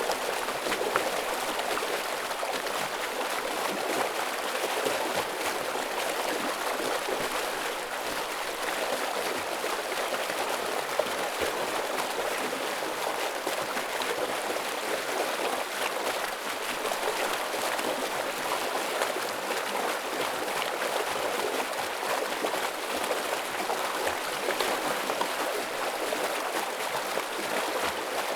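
Stream running heavily: a steady, even rush of flowing water.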